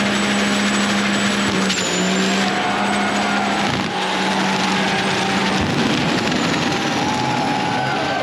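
Truck engine held at high, steady revs over a loud rushing noise, with a thin high whine on top. The engine note dips briefly a few times.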